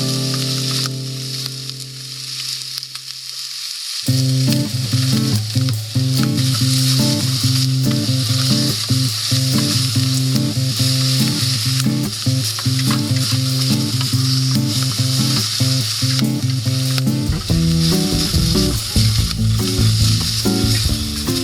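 Food sizzling steadily while cooking over a campfire, a continuous high hiss.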